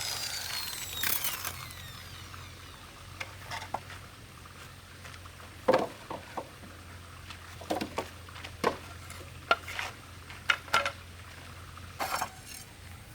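A power tool spins down with a falling whine in the first second or so. Then come scattered light knocks and clicks of wood and small hardware being handled, with the sharpest knock a little before the middle.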